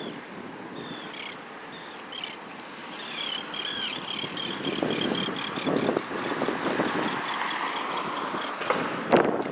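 Birds calling over open water: a few short curved calls, then a rapid run of repeated high notes, about five a second, for around five seconds. Under them is a steady rushing background of wind and distant harbour noise.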